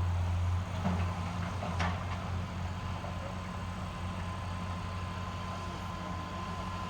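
An engine running steadily with a low hum. A single sharp click comes about two seconds in.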